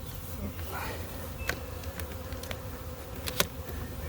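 Honey bee swarm buzzing steadily as a dense mass of bees, with a few sharp clicks over it, the loudest near the end.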